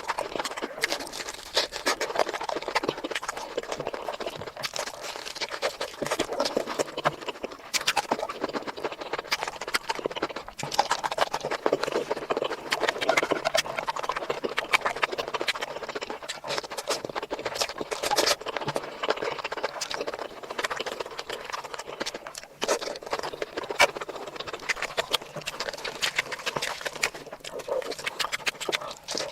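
Close-miked eating sounds: steady chewing with many quick mouth clicks and smacks, typical of mukbang eating sounds.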